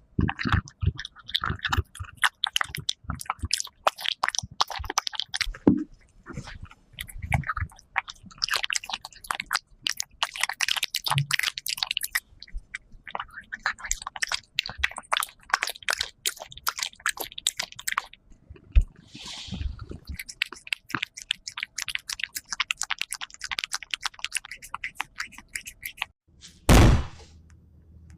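Cat chewing raw rabbit kidney close up: rapid, wet clicking and smacking bites with brief pauses. A single loud thump comes near the end.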